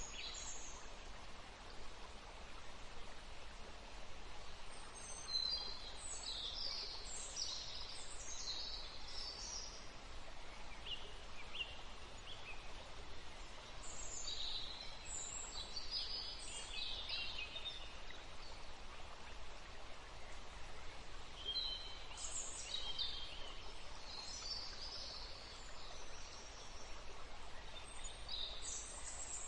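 Songbirds singing in short bursts of high chirps and warbles, with gaps between phrases, over a steady soft hiss of outdoor background noise.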